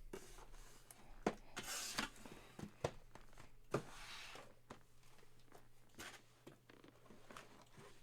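Cardboard boxes of trading cards being handled at a table: a few sharp clicks and knocks with two short rustling scrapes, like flaps and boxes being pulled and slid out of a case.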